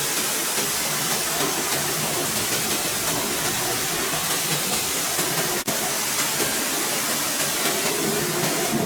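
Steady, loud hiss from a car-cleaning jet, broken by a momentary dropout about five and a half seconds in.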